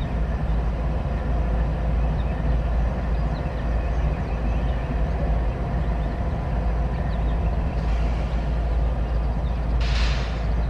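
CSX freight train rolling past, a steady, loud low rumble of cars on the rails, with a brief hiss near the end.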